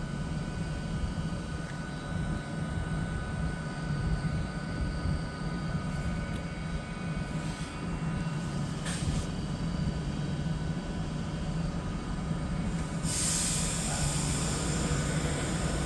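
Class 390 Pendolino electric train pulling out of the platform, a steady low hum with a few faint steady whining tones. A high hiss comes in near the end.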